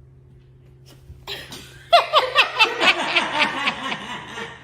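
A person laughing hard: a fast run of short "ha" pulses, each dropping in pitch, that fades away near the end.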